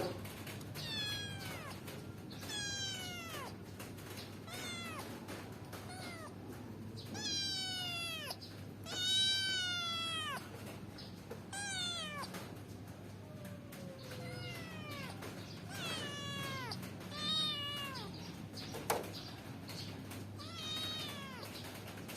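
A kitten meowing over and over, a dozen or more high-pitched calls that fall in pitch. The longest and loudest call comes near the middle.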